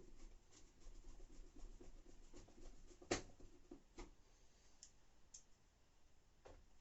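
Faint handling noises from reassembling a washing machine: small plastic clicks and rustles, with one sharp click about three seconds in and another about a second later.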